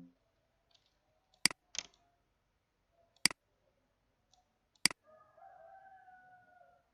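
Computer mouse clicking: four sharp single clicks spread over the first five seconds. After the last click comes a faint, drawn-out call that falls slightly in pitch and lasts about two seconds.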